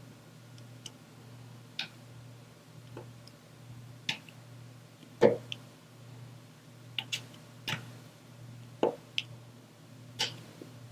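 Small, irregularly spaced clicks and taps of diamond painting: a drill pen setting resin drills onto the sticky canvas. There are about ten in all, the loudest about five seconds in.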